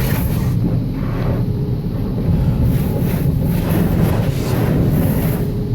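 Automatic car wash spraying the car, heard from inside the cabin: a steady low rumble with washes of water spray hissing across the body, coming and going every second or so.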